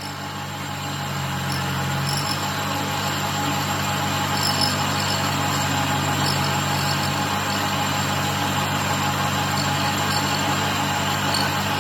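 A motor-driven machine running steadily: a low hum under a hiss, swelling over the first couple of seconds and then holding even, with faint light ticks over it.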